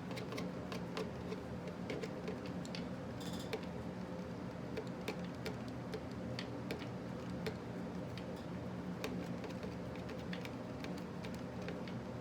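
Scattered small clicks and taps of a hex driver and metal parts as a shock-mounting screw is tightened on an RC monster truck, over a steady low hum.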